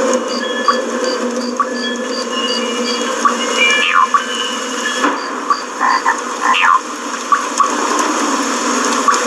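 Children's TV end-credits soundtrack of electronic sound effects: a steady bed with a train of short high beeps at about three a second, broken by brief tones and quick up-and-down swoops and chirps, some of them croak-like.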